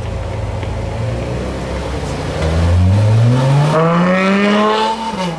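Car engine running low, then accelerating hard about halfway through, its pitch rising steadily for two and a half seconds before it lifts off near the end.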